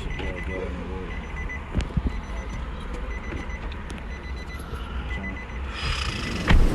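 A car's warning chime sounding short high beeps again and again over a steady low rumble, with a single knock near the end.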